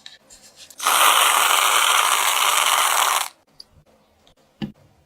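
A loud, steady hiss starting about a second in and stopping abruptly about two and a half seconds later, with a few faint taps around it.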